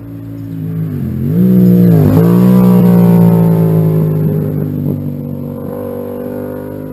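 Yamaha MT-07 parallel-twin engine through an aftermarket exhaust, accelerating hard. Its pitch drops sharply with two quick upshifts, about one and two seconds in, then rises steadily in the next gear. It grows louder and then fades as the bike pulls away.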